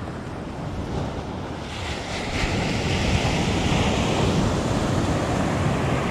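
Ocean surf breaking and washing up the beach, with wind buffeting the microphone; the rush of a wave swells about two seconds in.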